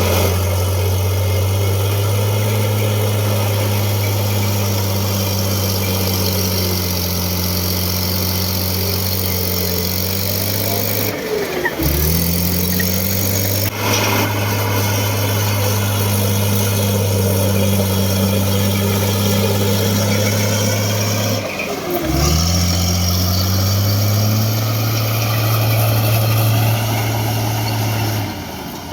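Heavy vehicle engine running steadily; twice its pitch drops suddenly and climbs back up.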